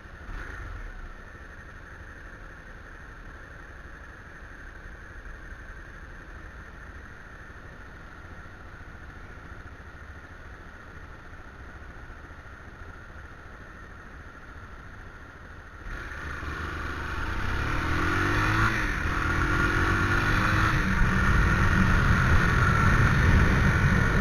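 Motorcycle engine running quietly at low speed. About two-thirds of the way in it opens up and grows much louder, its pitch rising twice as it accelerates through the gears.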